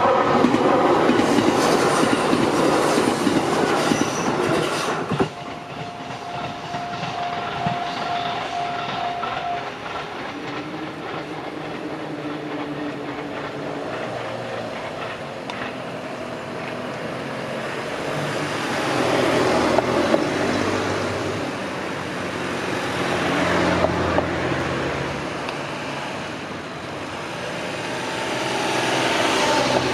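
Gotemba Line train running on the rails, wheels clicking over the rail joints. It is loudest for the first five seconds, drops off sharply, then keeps up a rumble that swells and fades several times.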